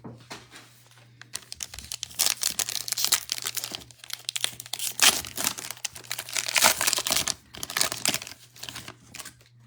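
A trading card pack's wrapper being torn open and crinkled, crackling on and off from about a second in until near the end, loudest in the middle.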